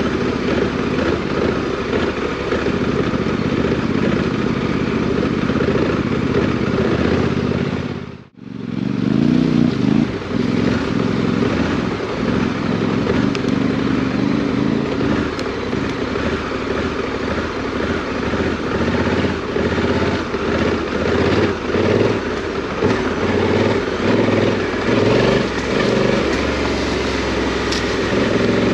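Parallel-twin adventure motorcycle running off-road, its engine note rising and falling with the throttle. The sound fades out and back in briefly a little over eight seconds in.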